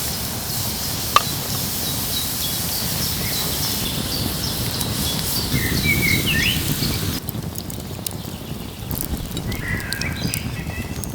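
Songbirds chirping over a steady rushing hiss that cuts off abruptly about seven seconds in, leaving the birdsong against quieter background. A single sharp click about a second in.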